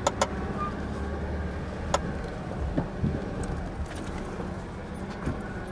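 Jeep's engine running low and steady as it drives slowly over a rough off-road trail, with a few sharp clicks and knocks, one about two seconds in.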